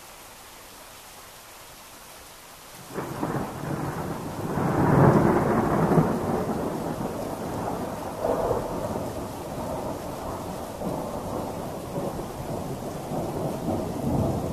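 Steady hiss of rain, then about three seconds in a long roll of thunder breaks in. It is loudest a couple of seconds later and keeps rumbling with smaller swells.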